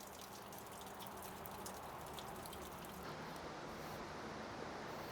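Faint, steady rush of falling water with scattered drips, from the stream and waterfall at Ozone Falls. The sound shifts about three seconds in, with the dripping ticks fading.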